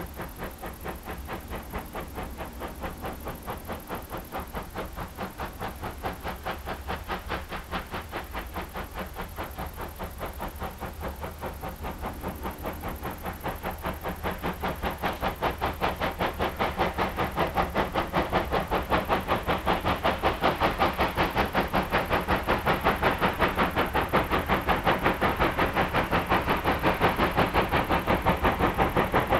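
Steam locomotive hauling a train, its exhaust beats chuffing in a fast, even rhythm that grows louder over the second half.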